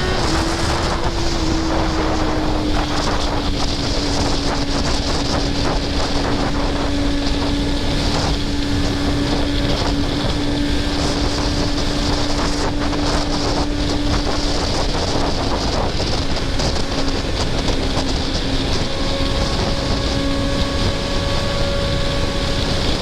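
Kawasaki ZX-10R inline-four engine running at a steady pitch under way, easing off slightly in the first couple of seconds and then holding level, with wind rushing over the microphone.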